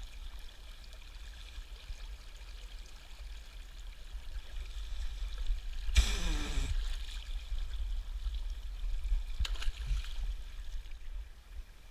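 River water flowing steadily, a continuous rush with a low rumble under it. About halfway a short falling voice-like sound cuts in, and a faint click comes a few seconds later.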